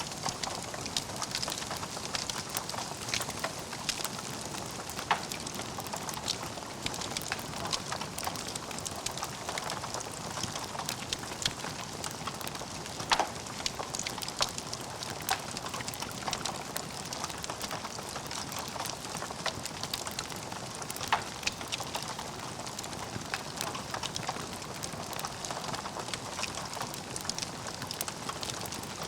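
Log fire in a fireplace crackling steadily over a soft hiss, with frequent small snaps and a few louder pops.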